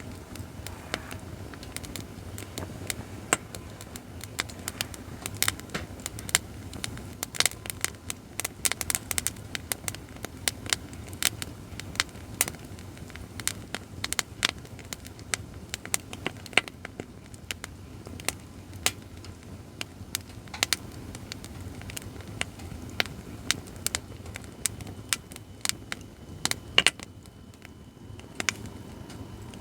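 Acacia firewood burning in a fire pit stand, crackling with many irregular sharp pops, one louder pop near the end. A low steady rumble runs underneath.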